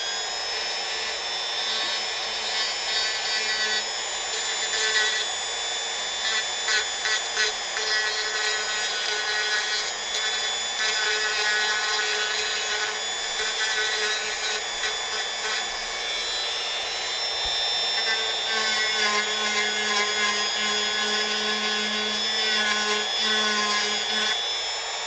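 Dremel rotary tool running at a steady high speed, its motor whining while the bit grinds against wood, with uneven scraping as it bites in and lifts off.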